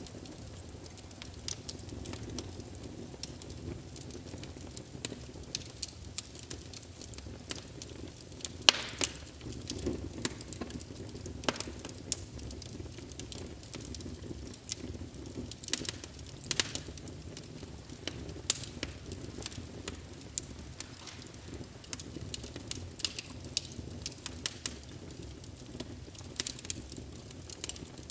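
Wood fire in a fireplace crackling, with irregular sharp pops and snaps over the low steady rumble of the burning logs; the biggest pops come about a third and halfway through.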